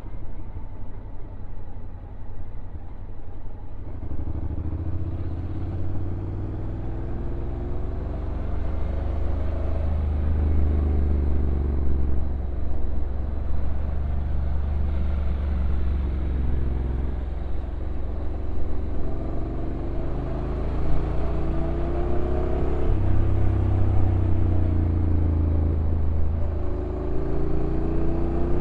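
Honda NC750X DCT's parallel-twin engine running while riding downhill. The engine pitch repeatedly rises and then drops as the revs climb and the dual-clutch gearbox changes gear, over a steady low rumble of road and wind noise.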